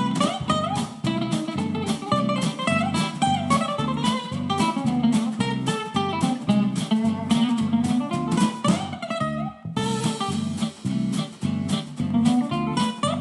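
Background music played on acoustic guitar, plucked notes over a steady beat, with a brief break about ten seconds in.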